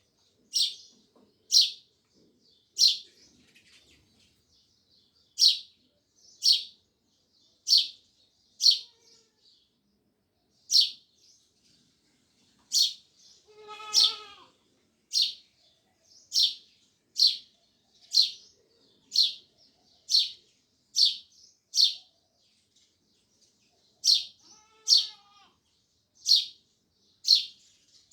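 House sparrows chirping: short, sharp chirps repeated about once a second, loud and close. A longer, lower, buzzier call breaks in once near the middle and again near the end.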